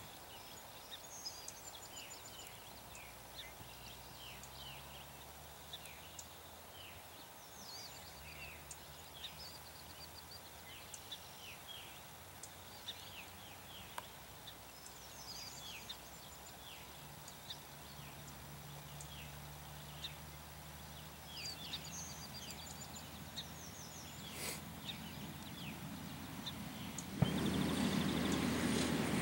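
Birds calling outdoors, many short falling chirps, over a faint low drone of distant aircraft. Near the end an airplane's engine noise suddenly comes in loud.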